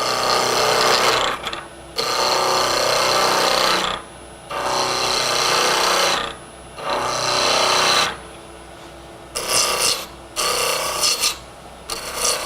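Turning tool cutting a spinning hard maple block on a wood lathe, roughing it from square to round in repeated passes of one to two seconds, with the lathe's steady hum between the cuts.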